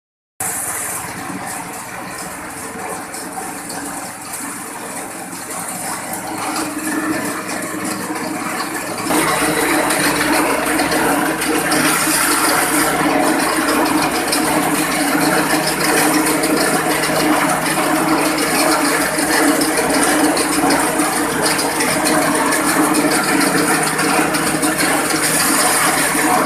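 Grass chopper machine running with a steady mechanical rattle, getting louder and fuller about nine seconds in.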